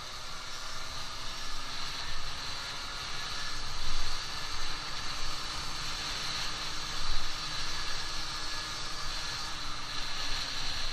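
A Yamaha Aprio 50 cc two-stroke scooter engine running under way while being ridden. Its note slowly rises and falls, over a steady hiss.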